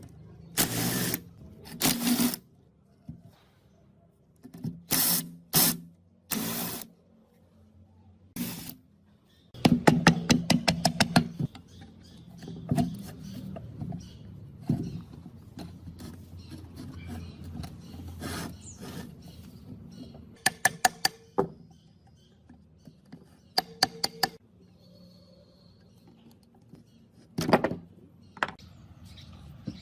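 Hand-tool work on metal parts: several short noisy strokes, then runs of rapid clicking.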